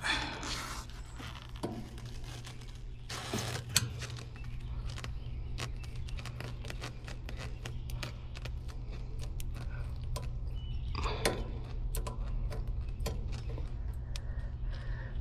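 Small metal clicks, ticks and scrapes of refrigeration tools and fittings being worked at an air conditioner's service port, with a valve core removal tool, over a steady low hum. Two short louder rushes of noise come about three seconds and eleven seconds in.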